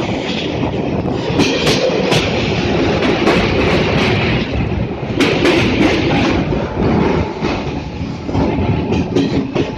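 Train running along the track, a steady rumble with wheels clicking and clattering over the rails.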